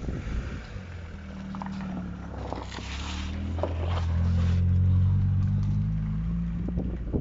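Proton Wira race car's four-cylinder engine running at low revs while the car drives, its note growing louder to a peak about five seconds in, then fading.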